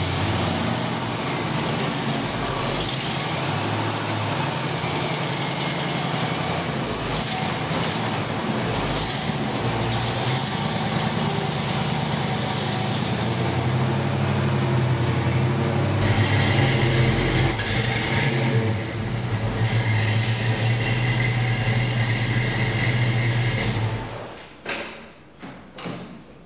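A 1965 Mustang's K-code 289 V8 running at idle with a steady low exhaust note, somewhat louder for several seconds in the second half, then switched off near the end; a few light knocks follow.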